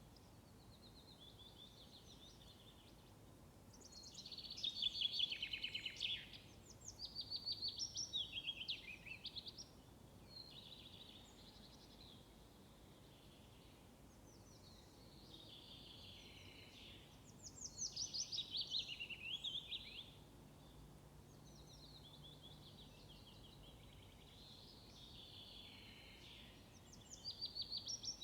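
Songbirds singing: repeated short phrases of rapid high notes every few seconds over a faint, steady outdoor hush.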